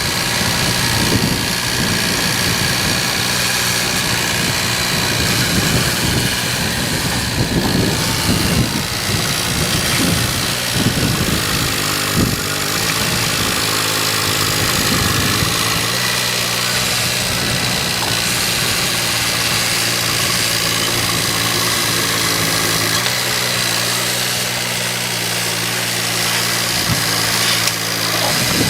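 A vehicle engine running at a steady idle, its note roughest in the first half and evening out about halfway through.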